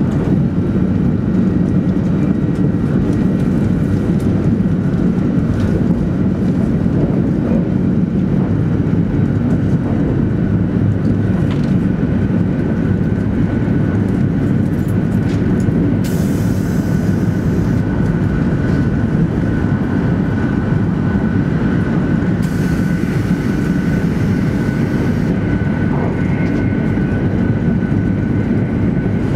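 Cabin noise of a 200 Series Shinkansen running at speed: a steady low rumble of wheels and running gear, with a faint steady whine above it. A brighter hiss joins twice, about 16 and 22 seconds in, for a few seconds each.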